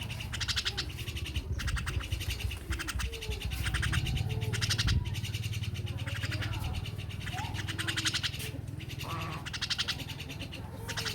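Jalak (starling) calling in a run of short, harsh, rapid rattling chatters. A few lower gliding whistled notes come between the chatters.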